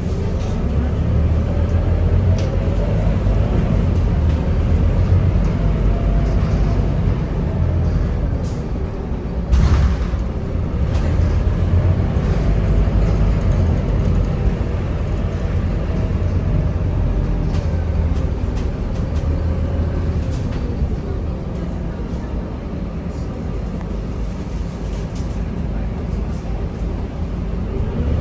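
Scania K230UB city bus heard from inside the cabin, its diesel engine pulling and easing off, the engine pitch rising and falling several times as the automatic gearbox changes gear. A short sharp hiss or knock comes about nine and a half seconds in.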